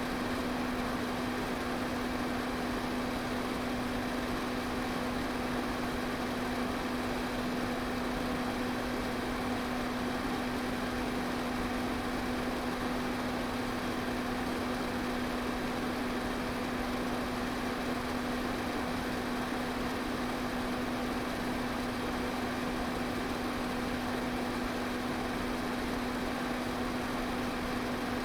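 Electric pedestal fan running steadily: an even rush of moving air over a constant low motor hum.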